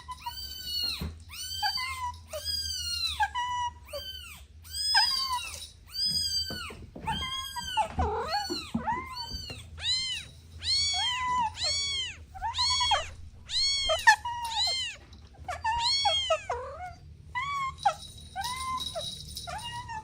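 Kittens meowing over and over: short, high-pitched, arching meows, one after another about once or twice a second, sometimes overlapping as more than one kitten calls.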